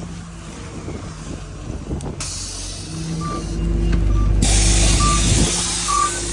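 City bus running, its engine a steady low rumble, with two long hisses of air a couple of seconds in and again after about four seconds, and a few short high beeps.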